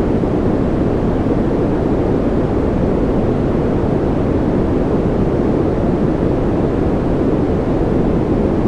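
Steady white-noise sleep sound for babies: an even rushing noise that is deepest and strongest in the low range, with no tones, beats or changes.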